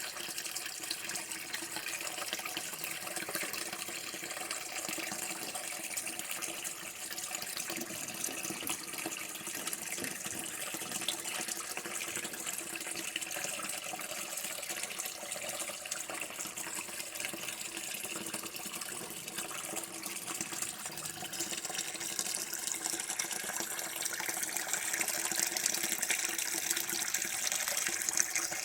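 Water running steadily from a tap, with a splashing hiss that grows a little louder and brighter over the last few seconds.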